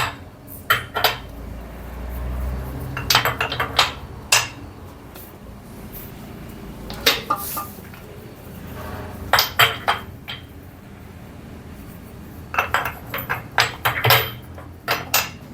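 Metal fittings and tools being handled, clinking and knocking in several short clusters of sharp clicks, with quieter gaps between them.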